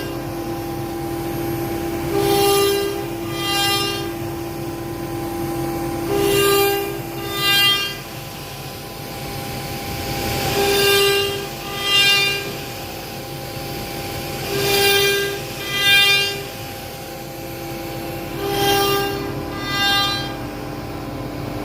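CNC router engraving wood: the spindle runs with a steady whine, and louder whines come in pairs about a second apart, every four seconds or so, as the cutter passes back and forth.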